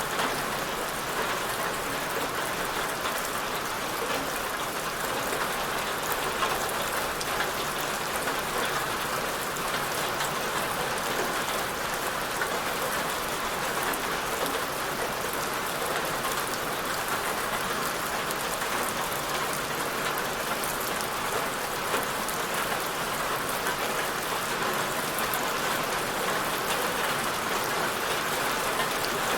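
Steady rain falling on a surface: an even hiss with many small drop patters, no thunder.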